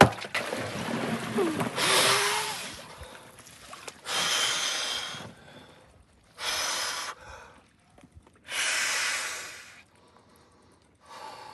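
A man in an ice bath gasping from the cold. Water splashes with a short vocal groan at first, then come three loud, hissing breaths about two seconds apart.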